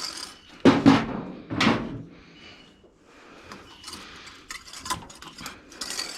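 Knocks and clanks of tools and metal parts being handled while working under the hood. Three louder knocks come in the first two seconds, then lighter scattered clicks.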